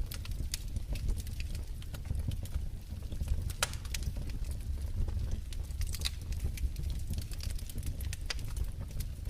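Wood fire in a fireplace crackling, with irregular sharp pops and snaps over a steady low rumble of the flames; a louder pop about three and a half seconds in.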